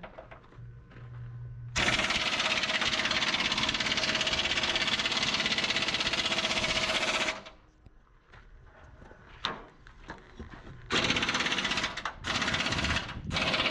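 A power tool hammering rapidly in bursts, typical of chassis repair work: one long run of about five seconds starting about two seconds in, then a few shorter bursts near the end.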